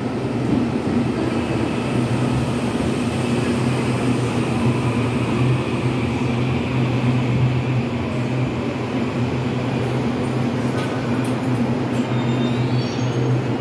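EMU800 electric multiple unit pulling into a station platform and slowing to a stop, giving a steady low hum with even running noise. A few faint rising tones sound near the end.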